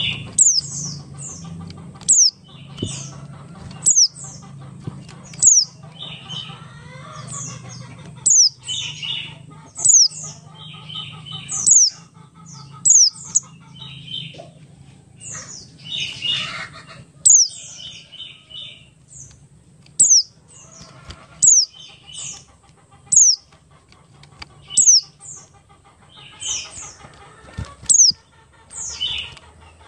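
Buxtoni white-eye (pleci) singing a long, continuous song: high, quick down-slurred notes about once a second, mixed with lower, rapid chattering phrases, over a low steady hum.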